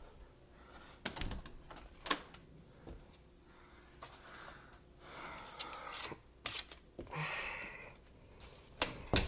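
Scattered clicks and knocks with brief rustling as objects are handled on a countertop, no grinder motor running.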